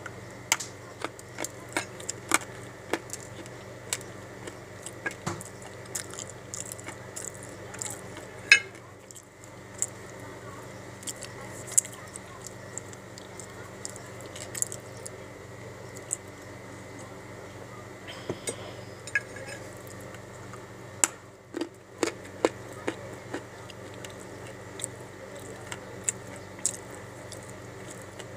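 Dry edible clay being bitten and chewed: irregular sharp crunches and crackles, several a second at times, over a steady background hum.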